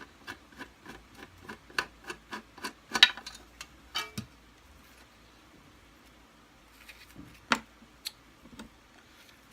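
Light, rapid clicking from small parts of a Kirby Sentria II vacuum being worked by hand during disassembly. The clicks come about three to four a second for roughly four seconds. After that there are only a few scattered taps, one louder than the rest a bit past the middle.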